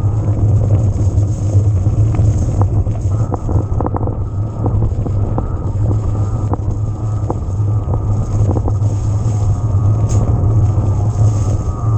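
Electric mountain bike riding over rough ground: a heavy rumble of wind on the camera microphone, tyre noise, and scattered clicks and rattles from the bike. Under it runs a faint whine from the Yamaha PW-X mid-drive motor, wavering in pitch and growing stronger near the end.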